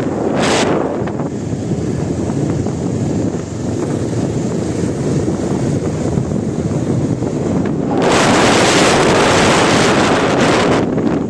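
Wind buffeting the microphone, with a stronger gust about eight seconds in that lasts nearly three seconds.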